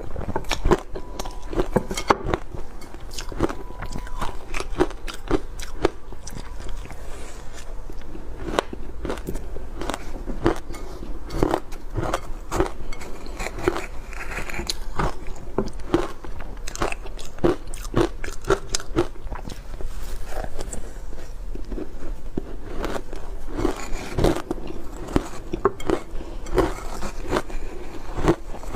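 A person biting and chewing ice: a continuous run of sharp crunches and cracks, several a second.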